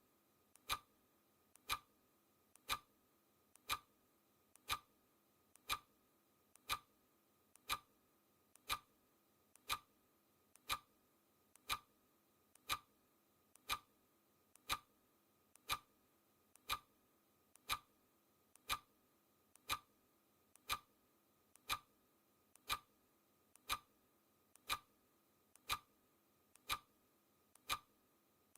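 Clock ticking sound effect, one tick a second at an even pace, each tick a faint click followed closely by a sharper one.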